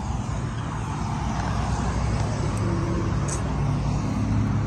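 Steady low rumble of motor vehicle engines running, with a faint hum that joins about halfway through.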